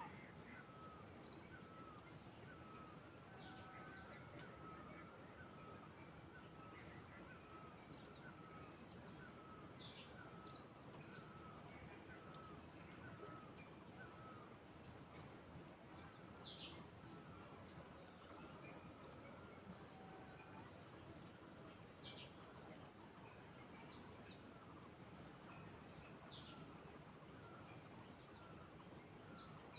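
Faint birdsong: several birds chirping with quick high notes, while one bird repeats a short lower note over and over, all over a steady background hiss.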